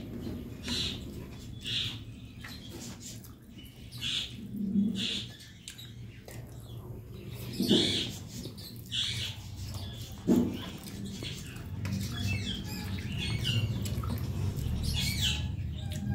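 Wet chewing and lip-smacking of a person eating rice and curry by hand, in short irregular bursts, with a few soft low thuds.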